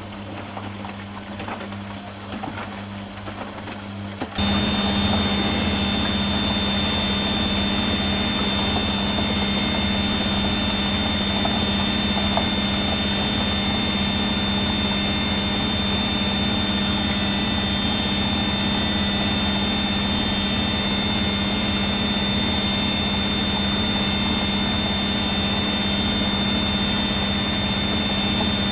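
Privileg 370 S washing machine running. About four seconds in, the sound jumps suddenly to a much louder steady hum with a thin high whine above it, which then holds steady.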